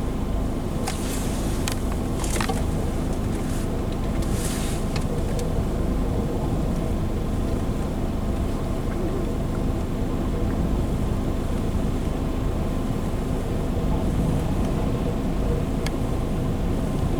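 Car running with a steady low drone, with a few sharp clicks in the first five seconds.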